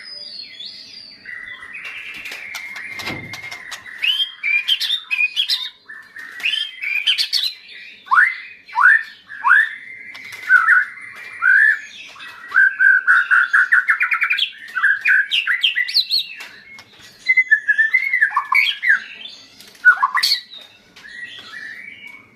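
White-rumped shama (murai batu) singing a long, varied song: clear whistles, a run of down-slurred notes and fast rattling trills, with only brief pauses.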